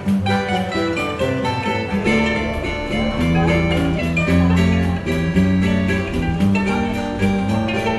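Choro ensemble playing instrumental music: plucked string instruments, led by guitar, over a bass line that moves from note to note.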